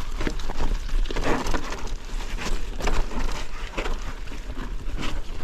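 Mountain bike tyres rolling over a trail thick with dry fallen leaves, an irregular run of crunching and crackling over a low steady rumble.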